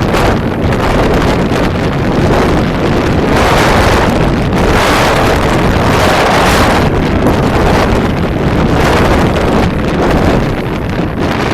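Wind buffeting the microphone in gusts over the steady rushing noise of a motorboat under way.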